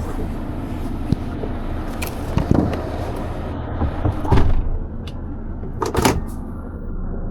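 Heavy truck engine idling with a steady low hum, broken by several clunks and knocks. The loudest come about four and a half and six seconds in.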